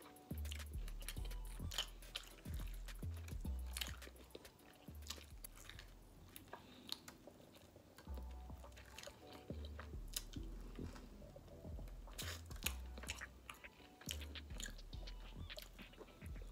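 A person chewing and biting food close to the microphone, with a steady run of sharp mouth clicks, over quiet background music with a low bass line.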